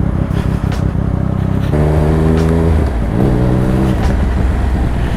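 Triumph Speed Triple RS three-cylinder engine running through its SC Project titanium exhaust while the motorcycle is ridden, with wind noise. The engine note holds steady for about a second from about two seconds in, breaks briefly, then holds again for about a second.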